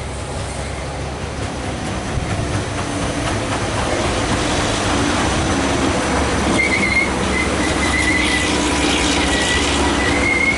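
SEPTA Silverliner IV electric multiple-unit train approaching and steadily growing louder, its wheels rumbling on the rails. About two-thirds of the way through, a thin, high-pitched wheel squeal sets in and wavers.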